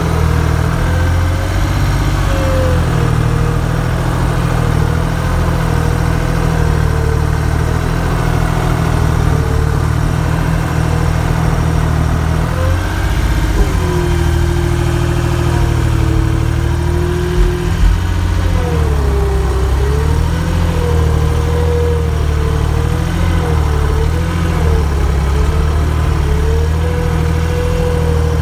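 An engine running steadily on a snow-plowing vehicle, with a whine that wavers up and down in pitch. The whine sinks lower for a few seconds about halfway through.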